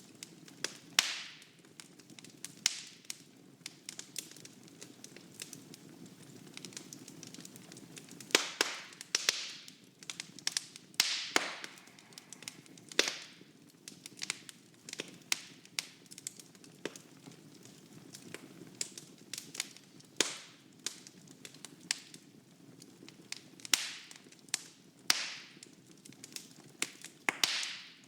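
Wood fire burning in a fireplace, crackling with irregular sharp pops and snaps over a steady low hiss of the flames.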